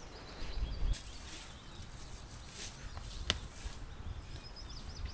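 Faint songbird calls, high and thin, with a low rumble just before a second in and a single sharp click about three seconds in.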